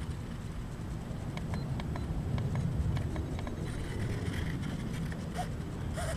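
Wind buffeting the microphone in a steady low rumble, with scattered light clicks.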